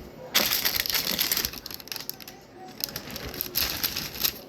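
Food wrapping crinkling and crumpling as it is handled and folded. It comes in two spells: a loud one lasting about a second near the start, then shorter bursts past the middle.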